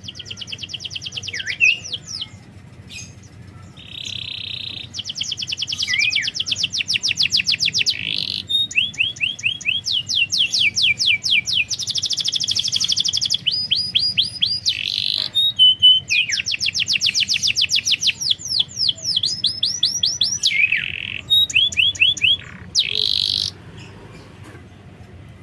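Domestic canary singing a long song of rapid trills. Each phrase is a run of quickly repeated notes, some of them buzzy, with short breaks between phrases. The song stops about a second and a half before the end.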